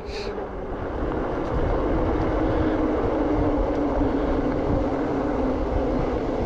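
Haibike Fat 6 electric fat bike being ridden: wind rushing over the microphone, with a steady hum from the tyres and drive that drops a little in pitch during the second half.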